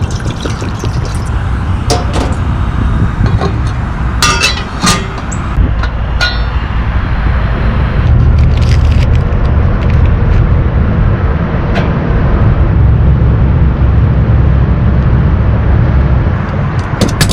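Cookware and utensils clinking as oats are made on a stove: a handful of sharp clinks and knocks, clustered about four to five seconds in, over a steady low rumble.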